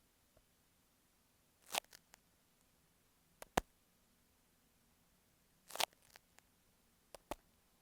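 Fingertips tapping and scratching directly on an earphone microphone, heard very close: a short scratch a little under two seconds in, a quick double tap at about three and a half seconds, another scratch near six seconds and two light taps near the end, with quiet between.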